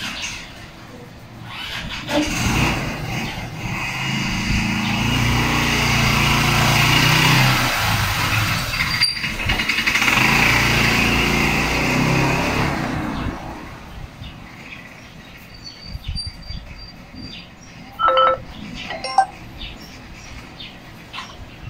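A motor vehicle's engine running close by for about ten seconds, then fading away. A few short sharp clicks follow near the end.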